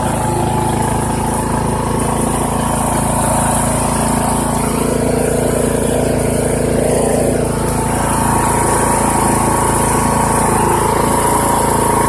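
Poulan Pro PP175G42 riding lawn tractor's engine running steadily while towing a loaded steel cart in third gear.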